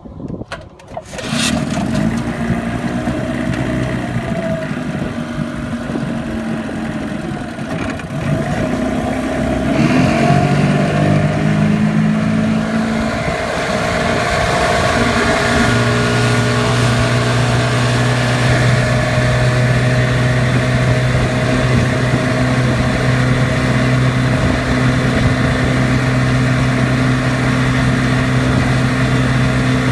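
Sea King 12 hp two-stroke outboard motor starting about a second in and running; its speed changes around ten seconds in, then it runs at a steady higher speed.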